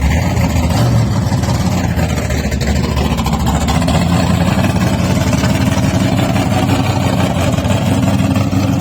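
A vehicle engine idling steadily close by, a low even hum with a steady pitch.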